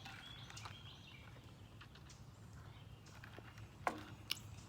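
Quiet outdoor ambience: a steady low hum with faint high chirps in the first second, and two sharp clicks about four seconds in.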